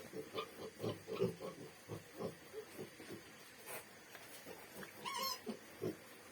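Pigs grunting, a run of short low grunts about two or three a second, with one brief high squeal about five seconds in.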